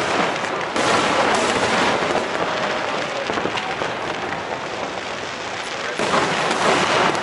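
Aerial fireworks shells bursting overhead in a dense crackle, with a sudden jump in loudness about a second in and again near six seconds in. Crowd voices underneath.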